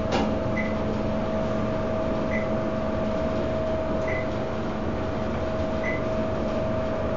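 Dover elevator cab travelling down, with a steady hum from the drive, plus a short high beep that repeats four times, about every second and three-quarters.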